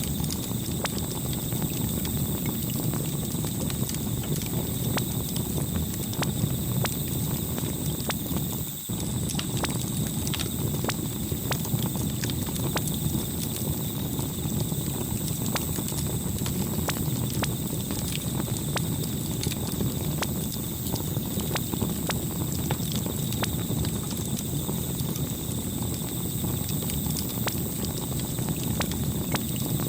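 Campfire crackling: a steady low rumble with a dense, irregular scatter of sharp pops and snaps from the burning wood.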